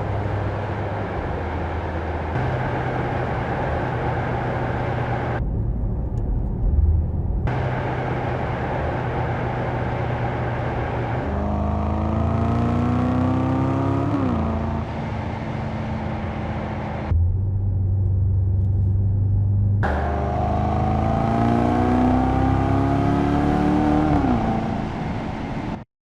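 Mercedes-AMG S 63 E Performance's 4.0-litre V8 running through its exhaust with a steady low hum. Twice it accelerates, the engine note rising for a few seconds and then dropping.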